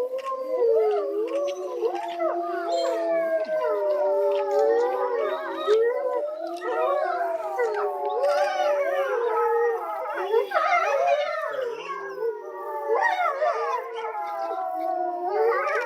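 A group of gray wolves howling together in chorus, several voices overlapping with long howls that slide up and down in pitch. About two-thirds of the way through, shorter, higher cries break in among the howls.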